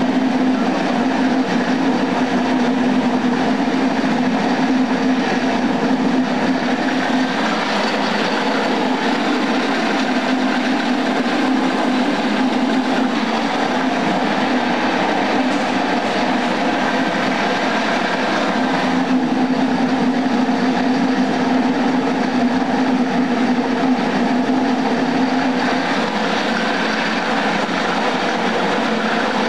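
Dry-soybean dehulling machine driven by a 750-watt electric motor, running steadily: a constant hum over a dense, even mechanical noise.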